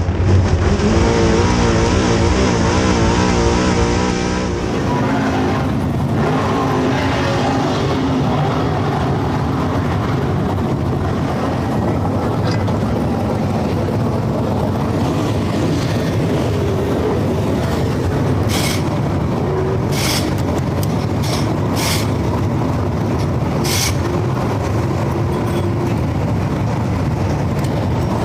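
Dirt late model V8 race engine running hard, its pitch wavering up and down with the throttle. About five seconds in the sound changes abruptly to a denser rushing engine noise, and a few sharp cracks come about two-thirds of the way through.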